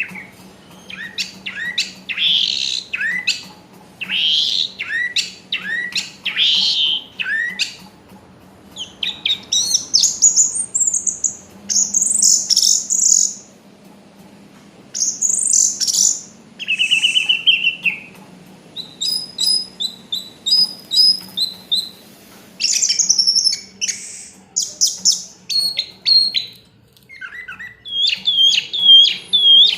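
Orange-headed thrush (anis merah) singing a varied series of whistled phrases, quick chirps and trills, each phrase a second or two long with short pauses between.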